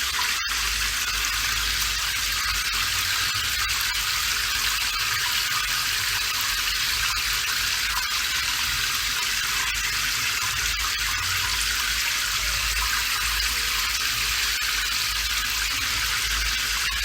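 Steady rain hissing evenly, with a low rumble underneath and faint scattered drop ticks. A split-second gap in the sound comes about half a second in.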